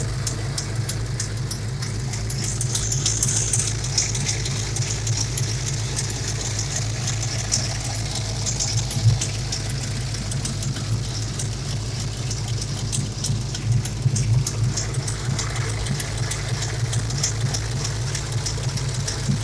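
Ford 351 Windsor V8 idling steadily, with a fast light ticking over the hum, which the owner puts down to leaking header and collector gaskets on both sides.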